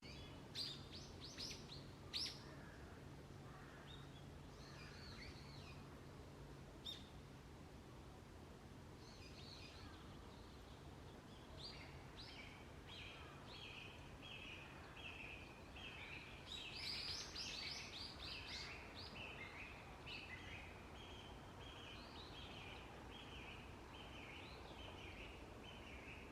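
Wild songbirds calling, faint: a few sharp chirps in the first couple of seconds, then from about halfway a long run of quick, repeated high notes, busiest about two-thirds of the way through. A faint low hum sits under the first quarter.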